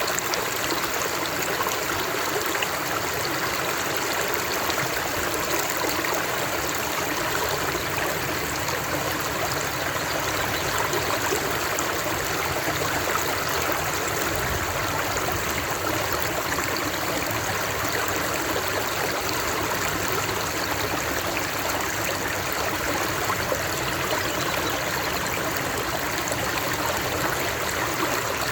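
Flowing stream water, a steady even rush and trickle with no change.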